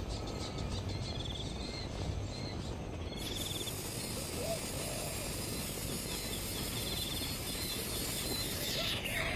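Outdoor natural ambience: steady background noise with short pulsed insect trills repeating, and a few faint bird chirps.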